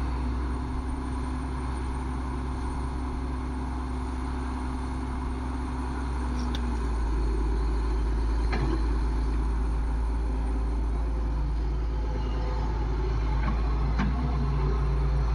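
Heavy diesel engine running steadily, getting a little louder about halfway through, with a few light knocks.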